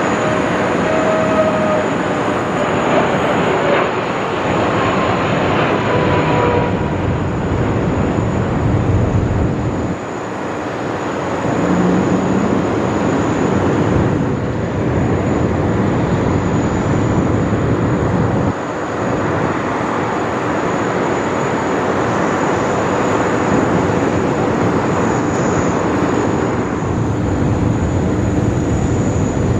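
Boeing 777X jet airliner flying its display, the steady rush of its two GE9X turbofan engines, with a few faint falling whines in the first six seconds. The sound drops and jumps in level abruptly at about ten and eighteen seconds.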